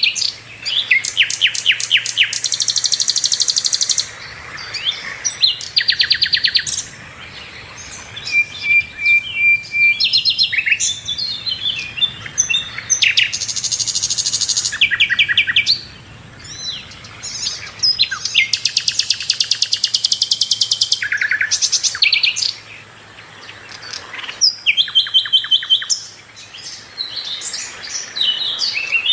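Sikatan londo, a small flycatcher, singing in full voice. It delivers a run of loud, high, rapid trills of fast repeated notes, phrase after phrase, with short pauses between them.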